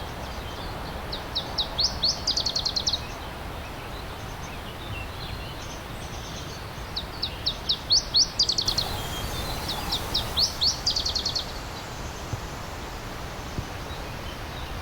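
A songbird singing the same phrase three times, a run of quick rising notes that speeds into a fast high trill, over the steady rush of a stream.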